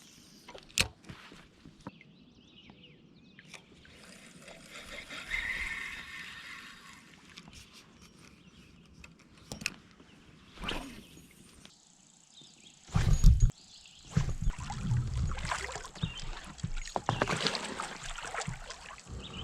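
Handling noise in a kayak on the water: scattered clicks and knocks, a short hissing patch, then a loud low bump about thirteen seconds in, followed by several seconds of rumbling, rustling noise.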